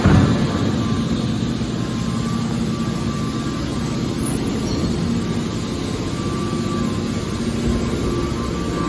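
Car scrap baler machine running, a steady heavy mechanical drone from its hydraulic power unit. A sharp loud knock comes just at the start.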